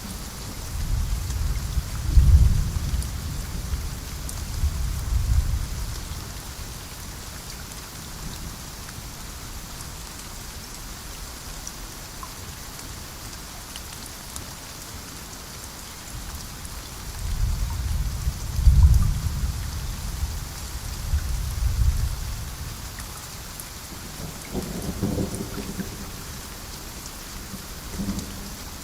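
Steady heavy rain hissing through a rainforest, with two long rolls of thunder rumbling low, one a second or so in and another past the midpoint, and a fainter rumble near the end.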